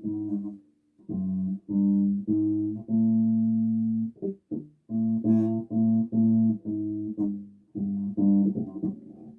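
Bass guitar played solo: a phrase of plucked notes separated by short gaps, with one note held for about a second around three seconds in.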